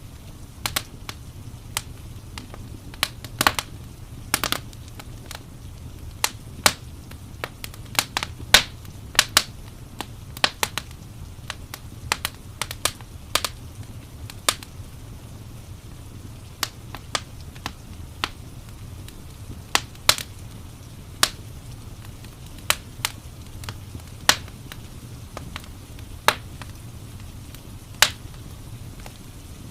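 Wood fire crackling in a fireplace: irregular sharp pops and snaps, a few much louder than the rest, over a steady low rumble.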